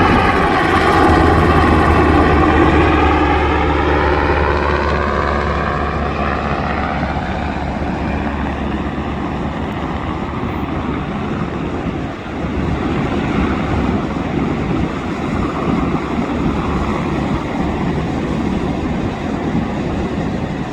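A Black Hawk helicopter passing low overhead, loudest at the start, with a sweeping shift in pitch as it goes by, then fading away over the next several seconds. After that, a steady rushing noise with a wavering level remains.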